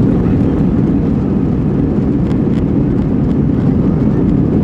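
Steady, loud rumble of an Airbus A320 heard inside its cabin: the engines and rushing air.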